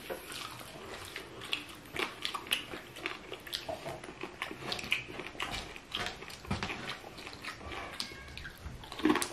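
Close-up eating sounds: chewing and mouth noises, with scattered small clicks and taps.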